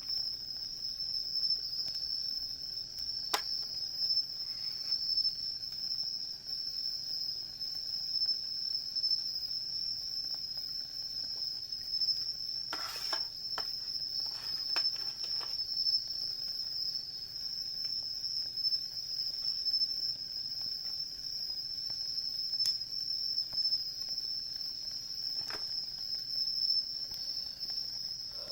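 Insects chirring in a steady, continuous high-pitched trill, with a few scattered crackles and pops from a wood campfire.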